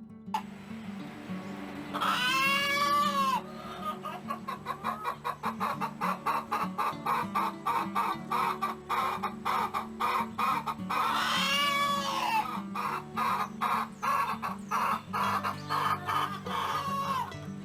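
A rooster crows twice, about 2 seconds in and again about 11 seconds in, with chickens clucking in fast runs between and after the crows, over steady background music.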